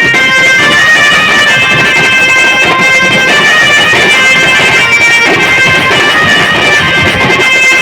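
Band party playing loud, continuous music, led by a reedy wind melody with held notes.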